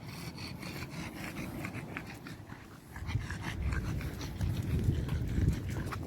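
Dog panting while out walking on a leash, with a low rumbling noise that swells about halfway through.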